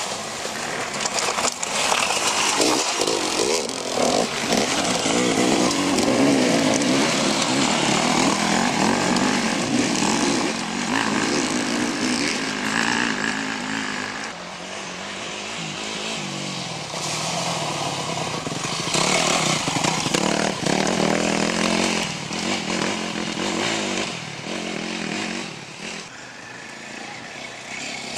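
Dirt bike engines revving hard in an enduro/motocross race, a buzzing note rising and falling in pitch and loudness as the riders open and close the throttle. The engines ease off around halfway and again near the end.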